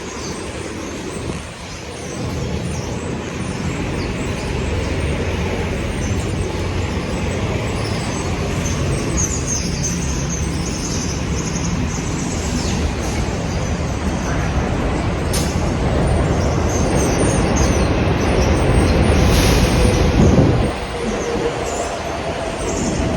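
City street traffic rumbling beneath an elevated subway line: a steady low roar that builds over most of the stretch and drops off sharply about three seconds before the end.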